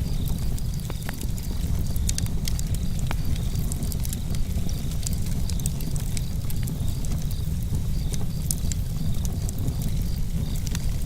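Campfire burning with a deep, steady rumble and scattered sharp crackles and pops of burning wood. Crickets chirp in a steady, regular pulse above it.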